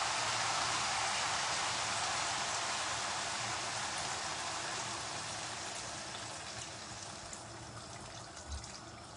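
A hot curry pan sizzling after water has been added, the hiss slowly dying down as it settles. A soft knock near the end.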